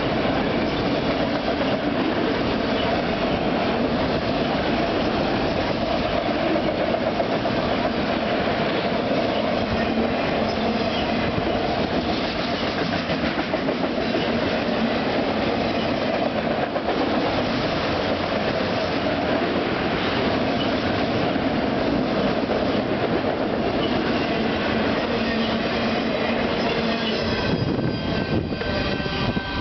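Empty autorack freight cars rolling past at speed: a steady rumble of steel wheels on rail with rhythmic clickety-clack over the joints. Near the end, as the last car passes, the ringing tones of a level-crossing bell come through.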